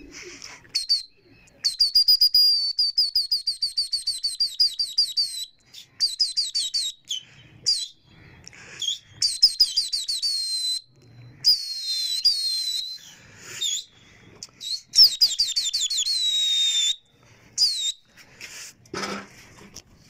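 A small bird chirping in fast runs of high, downward-sliding notes, about ten a second at its quickest, in several bouts broken by short pauses.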